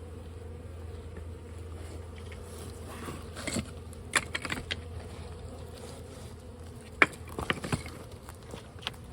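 Bees buzzing steadily as their colony is exposed in a brick wall, with scattered short clicks and knocks from about three seconds in.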